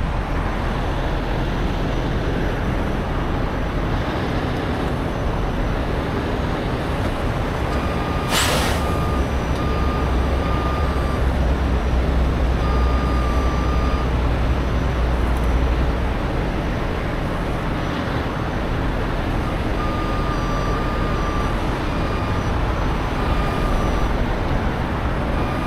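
Heavy truck's diesel engine running, with a short air-brake hiss about eight seconds in. The engine then revs up for several seconds while a reversing alarm beeps in broken runs as the truck backs up.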